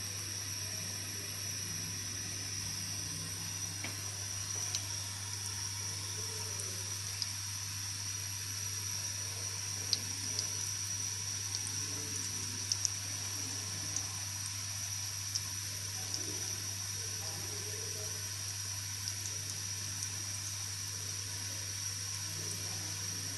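Egg-dipped bread slices frying in oil in a nonstick pan on low heat: a steady sizzle with a few sharp pops of spitting oil scattered through it, over a steady low hum.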